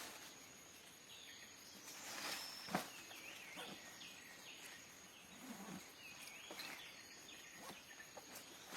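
Faint outdoor ambience: scattered short bird chirps over a steady high-pitched insect drone, with one sharp click a little before three seconds in.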